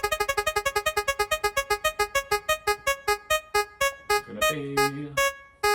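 Digital spinner-wheel sound effect: a rapid run of short, keyboard-like ticking notes that slows steadily as the on-screen wheel winds down, stopping about five seconds in.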